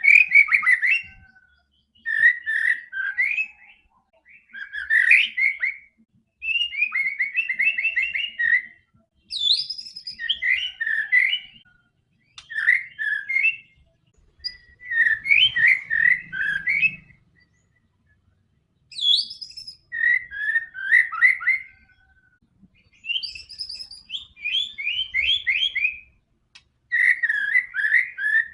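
White-rumped shama (murai batu) singing in a string of about ten rich, whistled song phrases, each one to two seconds long, separated by short pauses.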